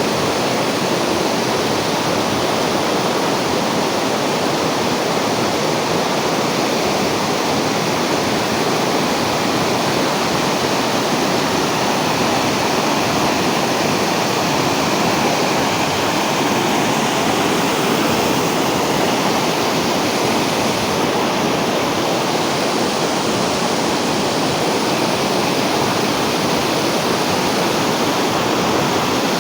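Heavy monsoon rain pouring down in a steady, dense hiss of water.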